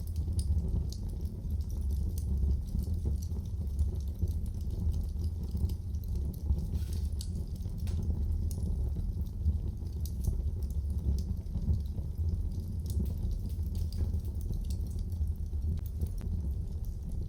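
Wood fire burning in a fireplace: a steady low rumble with many small, irregular crackles and pops of the burning wood.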